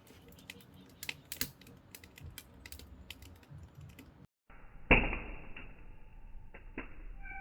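Firewood burning with scattered sharp crackles and pops. After a brief dropout a little past the middle, a single loud knock sounds, followed by a few more crackles.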